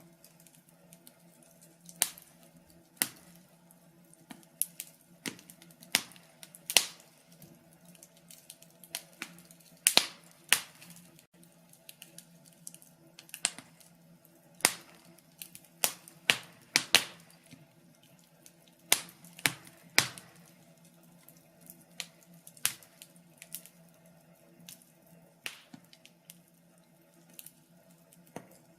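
Wood fire crackling in a fireplace: irregular sharp pops and snaps, one every second or so, some much louder than others, over a faint steady low hum.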